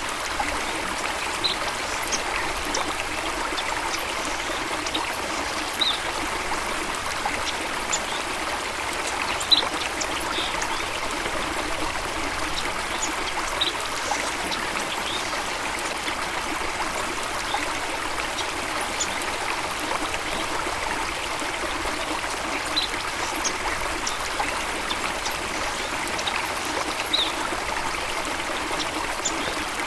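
Stream water trickling and flowing steadily, with scattered short high-pitched sounds every second or two.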